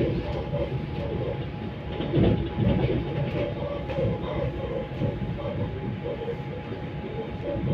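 Passenger train running at speed, heard from inside the carriage: a steady rumble of wheels on the rails with uneven knocks and a faint steady whine.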